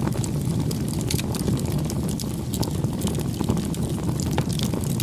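Wood campfire burning: a steady low rumble of flames with irregular sharp crackles and pops of burning wood throughout.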